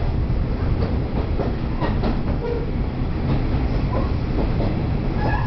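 Inside a KiHa 38 diesel railcar under way: the low drone of the running car with wheels clacking over rail joints.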